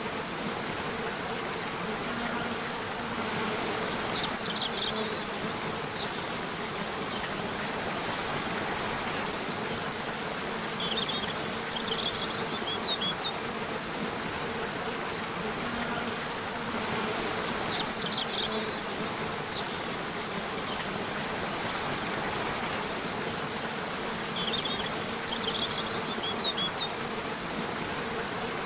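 Nature ambience: a steady hum of buzzing insects over an even hiss, with clusters of short high chirps returning every several seconds.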